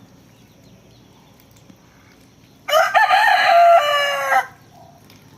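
Rooster crowing once, a single loud cock-a-doodle-doo lasting just under two seconds, starting about halfway in.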